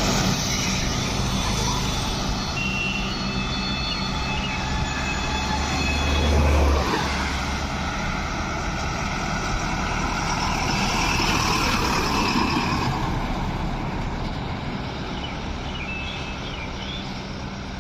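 Heavy truck engines running on a road. A deep low rumble grows louder and cuts off sharply about seven seconds in, then another vehicle passes with a swell of noise that fades toward the end.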